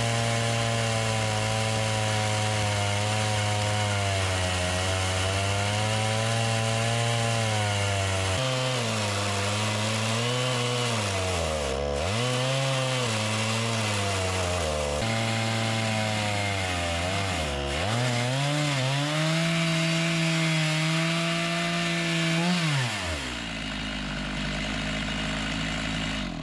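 Gas chainsaw on a chainsaw mill ripping a long log lengthwise at full throttle. The engine pitch sags and recovers several times as it bogs under load in the cut, then drops to a low idle about 23 seconds in.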